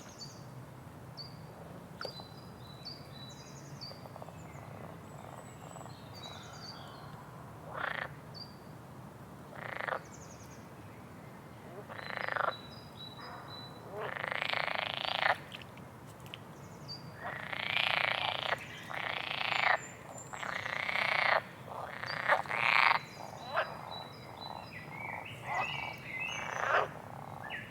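Frogs croaking in repeated rasping calls, a few at first and then coming thick and loud through the second half, with faint high chirps above them.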